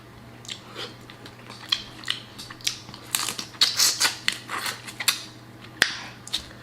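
Close-miked chewing of shrimp: an irregular run of short, sharp wet clicks and smacks.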